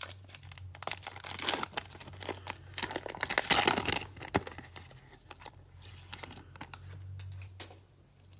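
Cellophane wrapper of a Prizm football card cello pack crinkling and tearing as it is opened, loudest about three and a half seconds in, over a low steady hum.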